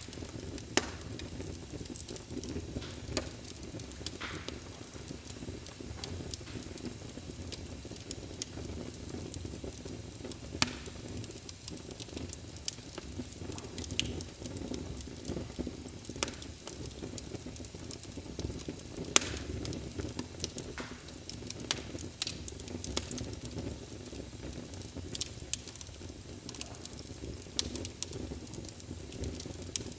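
Wood fire burning in a fireplace: a steady low rumble with light crackling and sharp pops every few seconds.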